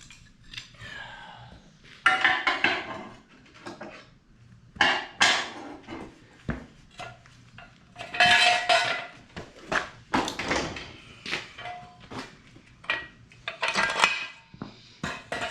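Metal tools and parts clanking and clinking as they are handled, in several irregular bursts, some with a brief metallic ring.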